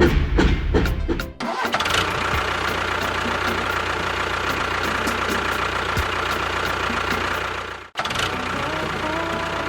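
A short stretch of rhythmic percussive music, then an engine running steadily for about six seconds. The engine sound cuts off abruptly near the end and another stretch of running sound begins.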